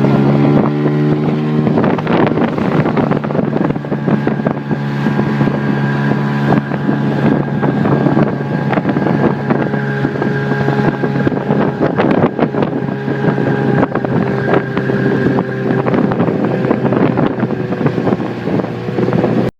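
HDX 9.8 R-series outboard motor running under throttle. Its pitch rises over the first couple of seconds, then holds steady with a thin, steady whistle above the engine note; this is the unexplained whistle the owner is showing. Wind buffets the microphone and the hull knocks against the waves.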